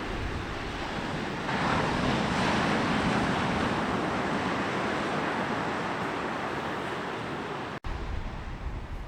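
Sea waves breaking and washing up a beach. A wave breaks about one and a half seconds in, swelling and then slowly easing off. Near the end the sound cuts abruptly to a quieter stretch with a low wind rumble on the microphone.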